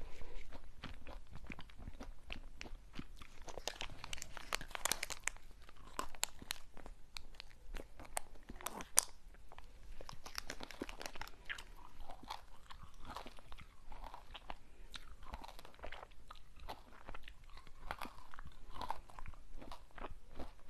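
Close-miked ASMR eating: crunching and chewing of crunchy sweets, a dense run of crisp bites and chews, with a louder burst of crunching about four seconds in and a sharp snap about nine seconds in.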